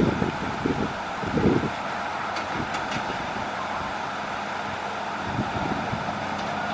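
Hitachi excavator's diesel engine running steadily, with a few loud low rumbling bursts in the first second and a half.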